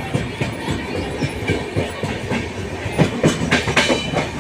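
Indian Railways train running on the line: a steady rumble with the wheels clattering irregularly over the rail joints.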